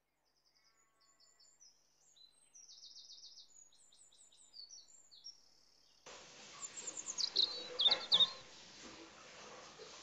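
Small birds chirping in short series of thin, high calls. About six seconds in a steady background hiss comes up, and a louder burst of chirps follows over the next two seconds.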